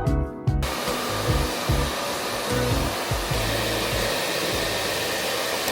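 Hair dryer blowing in a steady hiss that starts about half a second in, with background music's bass notes beneath it.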